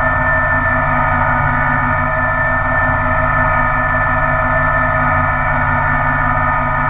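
Kubota BX1800 compact tractor's three-cylinder diesel running steadily at a constant speed, with a high whine over the engine note.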